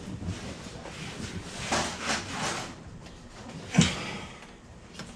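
Hard plastic dash parts and wiring being handled: scraping and rustling, then a sharp knock a little before the end and a small click.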